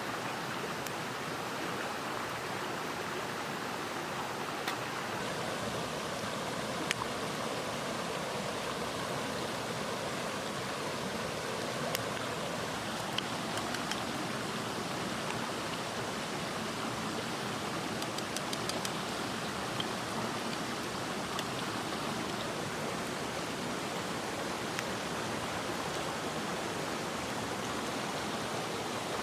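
Headwater stream flowing with a steady rushing sound, with a few faint sharp clicks scattered through.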